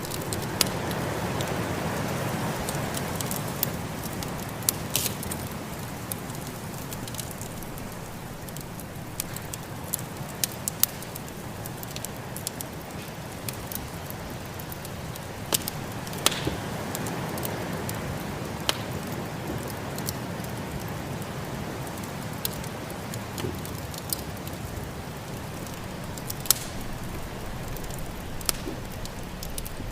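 Wood fire crackling in a fireplace, with sharp pops at irregular moments, over the steady rush of snowstorm wind that swells and eases.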